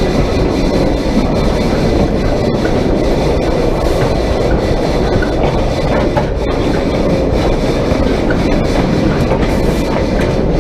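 Narrow-gauge steam train with loaded dump cars running along the track: a steady, loud rumble of the moving train.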